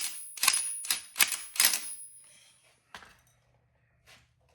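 A string of five sharp, loud clacks in the first two seconds, unevenly spaced, then a couple of faint clicks later on.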